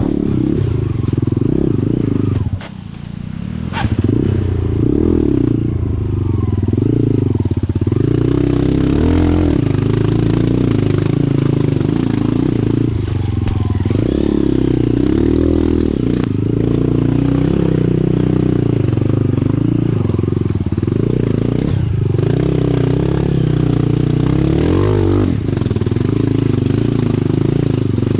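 Dirt bike engine revving up and down repeatedly under throttle. Its note drops briefly about two and a half seconds in, then it picks up again.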